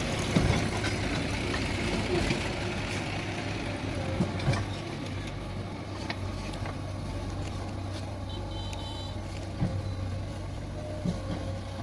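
Backhoe loader's diesel engine running steadily, with a few short knocks.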